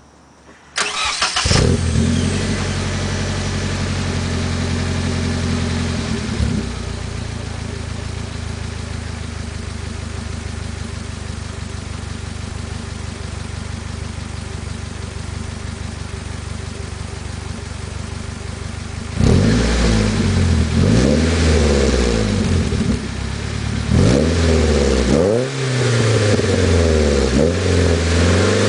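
Nissan 240SX's KA24DE 2.4-litre four-cylinder, with Brian Crower stage 2 cams and an HKS cat-back exhaust, heard at the tailpipe. It cranks and starts about a second in, runs at a high idle that drops to a lower steady idle about six seconds in, then is revved in a series of quick throttle blips over the last ten seconds.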